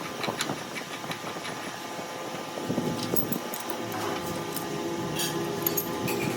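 A small machine motor running steadily, with scattered light clicks and ticks; the hum grows louder about halfway through.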